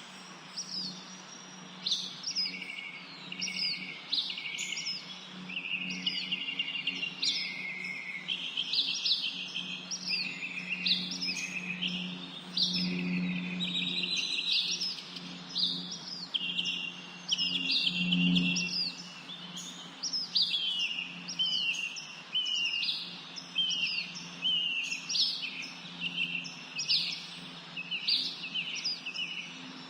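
A flock of small birds chirping continuously, many short calls overlapping. Beneath them runs a steady low hum that swells briefly twice, about halfway through and again a few seconds later.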